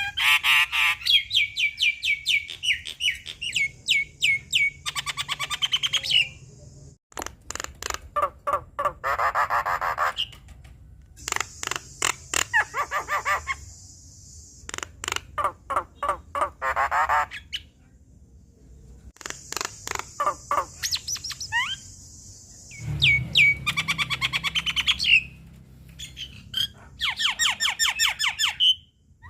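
Javan myna singing a long, varied chattering song: bouts of fast repeated notes, whistles and harsh squawks, broken by short pauses.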